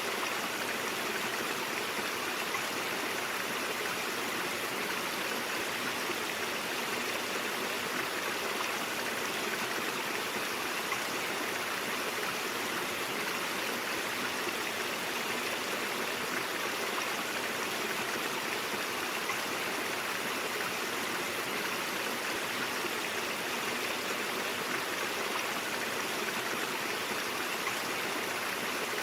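Stream water flowing and babbling steadily over rocks, a constant even rush with no breaks.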